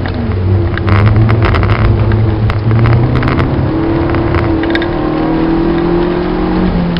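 Citroën Saxo VTS four-cylinder engine heard from inside the cabin, holding a steady note and then pulling under acceleration with a slowly rising pitch, which drops suddenly near the end as the next gear goes in. A scatter of sharp clicks sounds in the first half.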